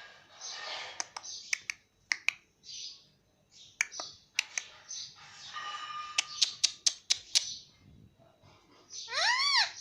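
Indian ringneck parakeet chattering softly, with scattered sharp clicks, then giving one loud call that rises and falls in pitch near the end.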